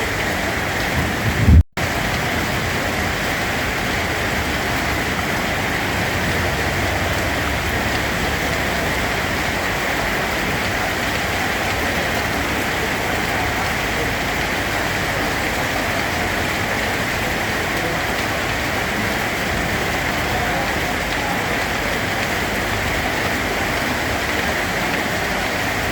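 Steady rain falling and pattering on surfaces, an even hiss with no breaks. About a second and a half in there is a brief low thump, the loudest moment, followed by a split-second gap where the sound cuts out before the rain resumes.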